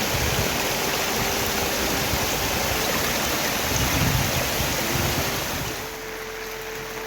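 Heavy rain pouring down, with low rumbling gusts of wind on the microphone; the rain noise drops quieter about six seconds in.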